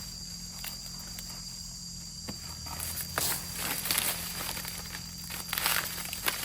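Rustling and crackling with scattered snaps and steps, busier and louder in the second half, over a steady high-pitched hum.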